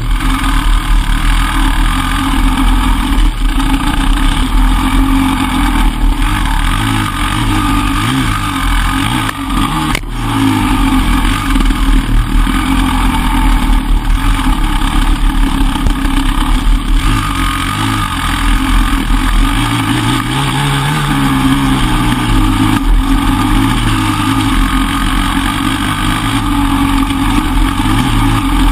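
Enduro motorcycle engine running hard, its revs rising and falling as the throttle is worked.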